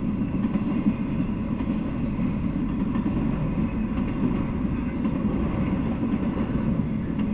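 Intermodal freight train of flatcars loaded with semi-trailers rolling past, its steel wheels on the rails making a steady low rumble.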